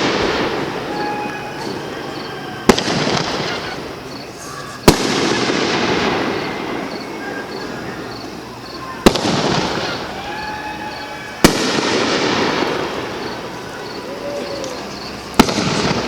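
Consumer (Class C) aerial fireworks bursting: five sharp bangs about two to four seconds apart, each followed by a couple of seconds of fading crackle and echo.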